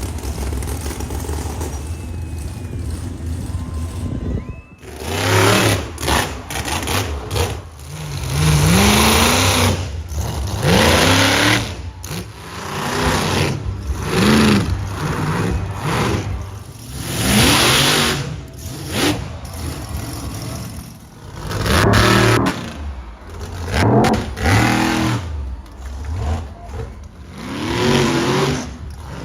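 Monster truck engine revving hard again and again, each rev rising and falling in pitch, after a steadier low rumble at the start.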